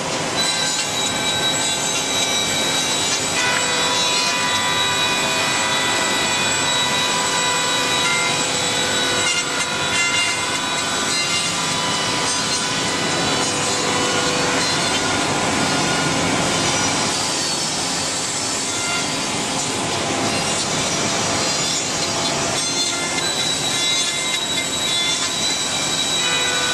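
CNC dovetail and drawer-joint machine cutting wood: spindle motors whine steadily over the noise of the router bits in the wood.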